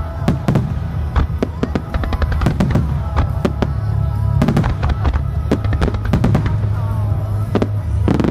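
Fireworks finale barrage: aerial shells bursting and comets firing in rapid, irregular bangs, several a second, over music.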